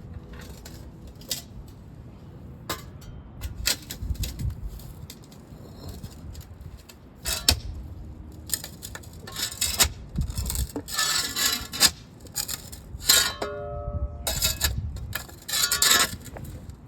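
Patio pavers knocking, clinking and scraping against one another as they are shifted into line, in irregular sharp clacks with a few short ringing chinks.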